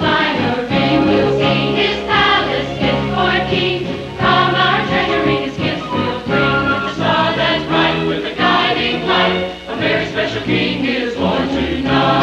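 A church choir singing with accompaniment, in a sustained legato line.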